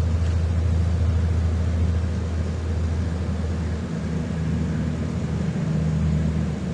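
A vehicle engine running steadily with a low hum, its pitch shifting upward about four seconds in.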